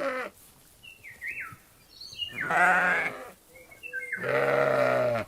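Sheep bleating: two long, wavering bleats, one about two and a half seconds in and another about four seconds in, after the tail of an earlier bleat at the start.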